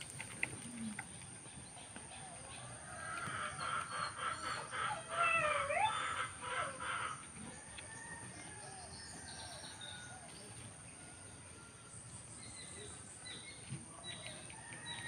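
Birds calling: a busy stretch of chirps and gliding calls from about three to seven seconds in, then fainter scattered calls.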